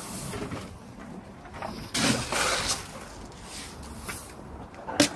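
Rustling and scattering noises as mixed corn feed is handled and thrown for hens. The loudest stretch comes about two seconds in, and there is a sharp click near the end.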